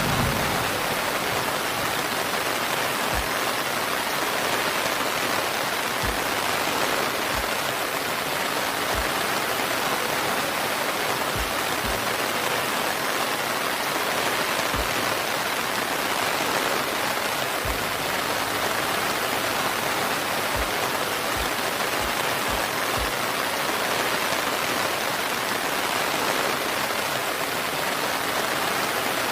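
Steady rain falling, an even hiss with scattered faint low thuds.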